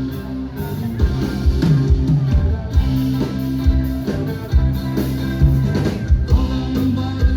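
Live band music: a drum kit keeping a regular beat under sustained bass and guitar or keyboard notes.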